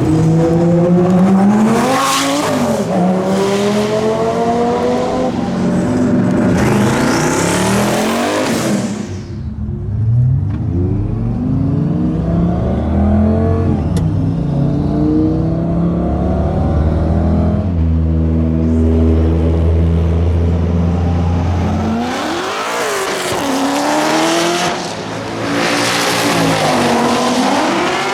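High-horsepower race car engines at wide-open throttle, pulling hard through the gears. Each pull rises steeply in pitch and drops at an upshift, with a lull and a steadier low drone in the middle before another hard pull near the end.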